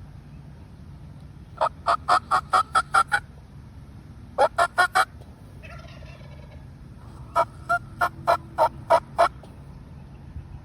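Turkey yelps: three series of short, evenly spaced notes, about eight, then four, then seven, at roughly four to five notes a second.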